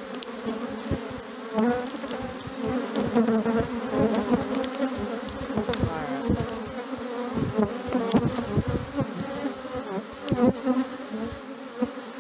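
Loud, dense buzzing of a large number of honeybees swarming out of an opened hive, wavering steadily, with scattered low thumps. The bees are noisy and stirred up because the hive was opened without smoke.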